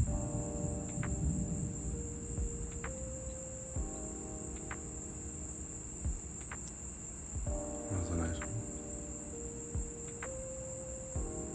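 A steady, high-pitched chorus of night insects, with a low rumble fading out in the first second. A repeating phrase of sustained low musical notes comes in about every four seconds, with a few faint ticks.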